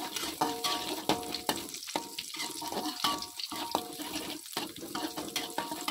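Chopped shallots and garlic frying in a little oil in a wok, sizzling, while a metal spatula stirs and scrapes them against the pan. Its strokes make repeated clicks, several of them followed by a brief metallic ring from the wok.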